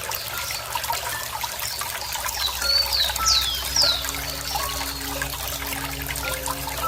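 Water trickling and bubbling steadily. A bird calls over it with three or four loud, high whistled notes that slide downward, about two and a half to four seconds in.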